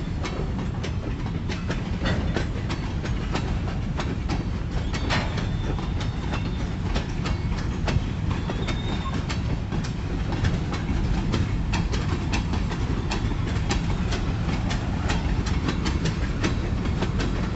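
Kiamichi Railroad freight cars rolling past: a steady low rumble of wheels on rail, with many irregular clicks and clacks as the wheels cross rail joints.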